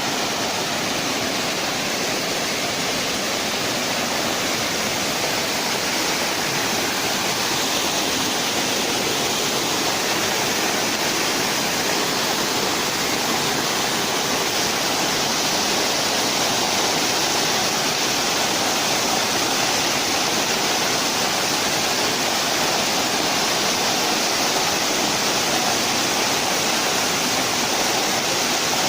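Waterfall: a steady, loud rush of falling water that does not change in level.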